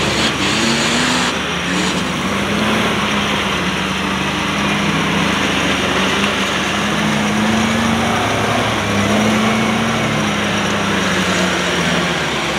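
Off-road trial prototype's engine working hard on a steep climb, its pitch rising and falling with the throttle.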